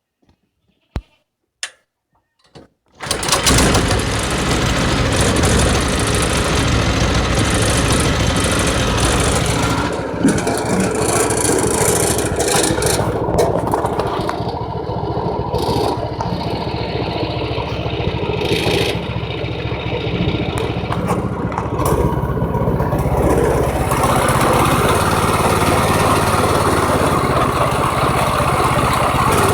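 A few sharp clicks, then a Predator 6.5 HP single-cylinder small engine starts about three seconds in and keeps running loudly and steadily. Its sound turns brighter and higher-pitched at about twenty-four seconds.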